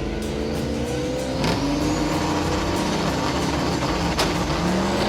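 Drag-racing cars, a Buick Grand National and a Mustang, accelerating hard at full throttle. The engine pitch climbs, falls back and climbs again as they go up through the gears, with a sharp crack about a second and a half in and another about four seconds in.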